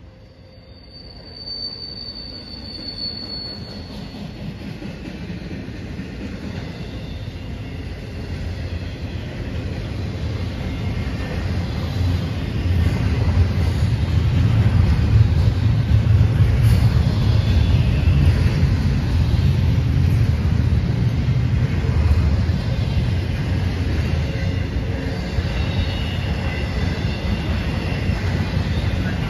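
Intermodal freight train's well cars rolling past: a low rumble of wheels on rail that grows louder over the first fifteen seconds and then holds. A thin high wheel squeal sounds in the first few seconds, with fainter squeals near the end.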